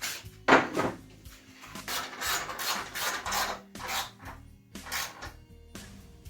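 A series of irregular rasping, scraping strokes.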